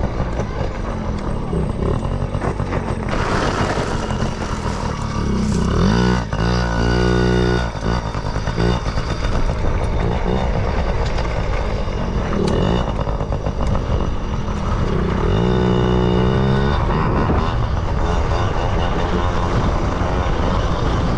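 Yamaha PW50 mini dirt bike's small two-stroke single-cylinder engine running under way while riding, its revs rising and falling twice.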